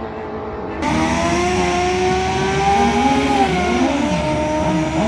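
Racing motorcycle engines at high revs, several at once, their pitches dipping and rising again as the bikes pass and change gear. Just under a second in the sound jumps suddenly louder and brighter.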